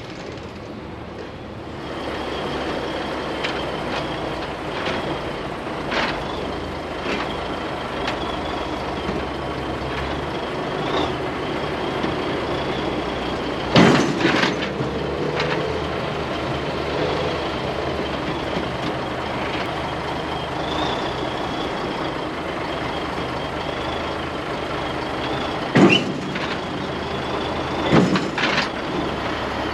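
A heavy diesel vehicle running steadily, with a few sharp knocks, one about halfway through and two near the end.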